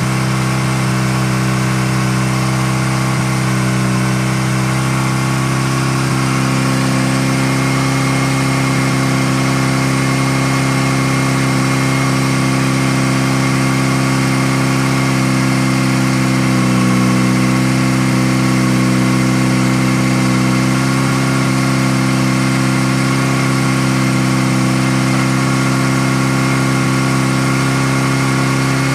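Freshly rebuilt Mazda RX-7 rotary engine idling steadily, purring like a kitten. Its pitch wavers briefly about halfway through.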